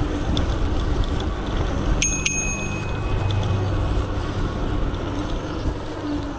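A bicycle bell rung twice in quick succession about two seconds in, each ding ringing on briefly, over a steady low rumble of riding noise.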